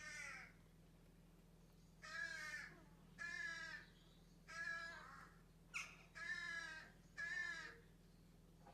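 Barn owl giving a series of short calls, about one a second.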